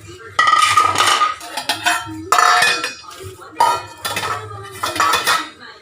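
Metal pots, dishes and utensils clattering and clinking as they are handled, in about four loud ringing bursts.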